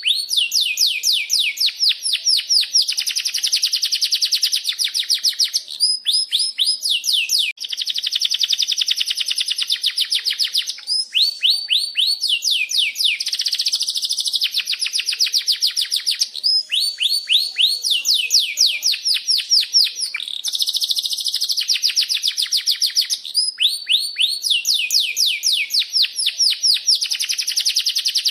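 Domestic canary singing a long unbroken song of rapid trills and rolling phrases, each run of fast repeated notes giving way to the next with no pause.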